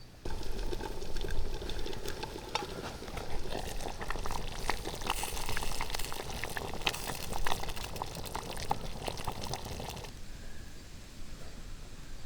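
Liquid bubbling and spitting in a cooking pot, with many small pops and clicks over a steady seething; it starts abruptly and cuts off about ten seconds in.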